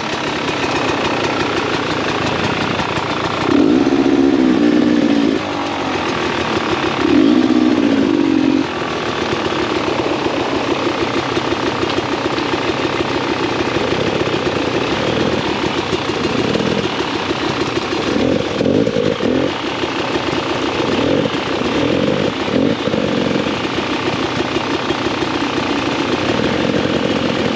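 2017 Beta 300 RR two-stroke dirt bike engine running, with two longer revs a few seconds in and then a run of short throttle blips.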